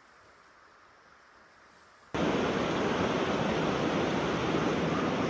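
A faint steady hiss, then an abrupt cut about two seconds in to a loud, steady rush of water.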